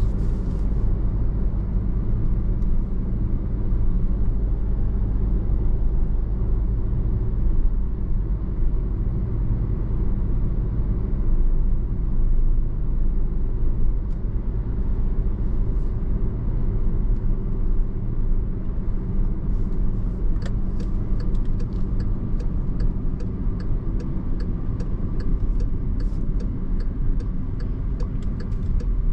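Steady low road and engine rumble of a car driving, heard from inside the cabin. About two-thirds of the way through, a turn-signal indicator starts clicking at an even rate.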